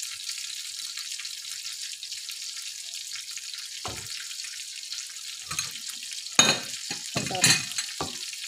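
Salmon steaks sizzling in hot oil in a frying pan, a steady crackling hiss. Several short knocks and clatters come in the second half, the loudest about six and a half seconds in.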